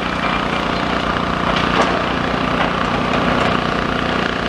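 Demolition machine's engine running steadily, with cracking and splintering of debris and a few sharper cracks about a second and a half in, under wind rushing on the microphone.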